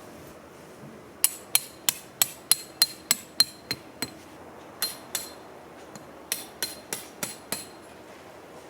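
Metal being hammered: a run of sharp, ringing blows about three a second, about ten, a short pause, two more, then five more.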